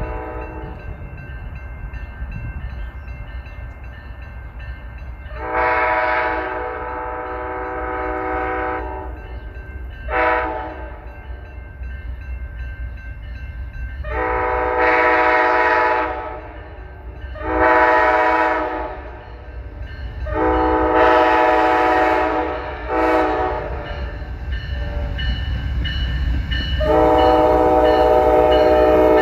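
Amtrak passenger train's locomotive air horn sounding a series of chord blasts, mostly long with two short ones, over the steady low rumble of the approaching train. The final long blast, about 27 seconds in, is the loudest as the train draws near.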